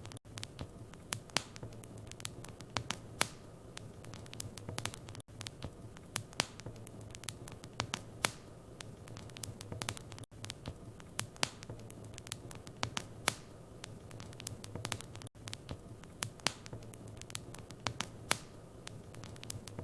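Wood fire in a fireplace crackling, with irregular sharp snaps and pops over a low steady hum.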